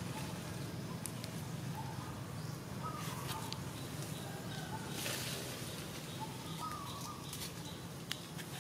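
Wild birds calling: short whistled notes recurring every second or so over a steady low hum, with a brief rustle about five seconds in.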